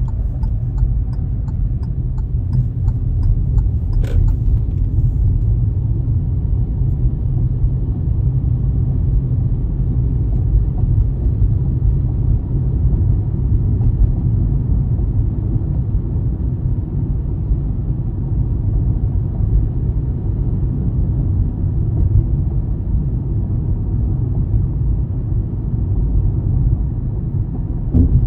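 Steady low road rumble of a car being driven, with one short sharp click about four seconds in.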